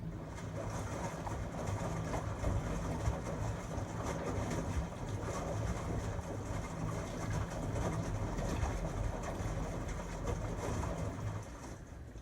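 A 13-year-old LG Tromm WD-CR101C front-loading drum washing machine running its quick-wash cycle. It sets off with a pulsing motor hum and a rushing tumble of the drum, then stops after about eleven and a half seconds.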